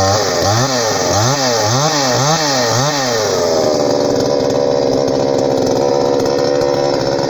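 Two-stroke chainsaw engine revved in about five quick blips of the throttle, then held running steadily at speed.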